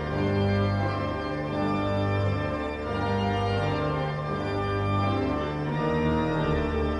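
Organ prelude: sustained chords held and changing every second or so, with a low bass line.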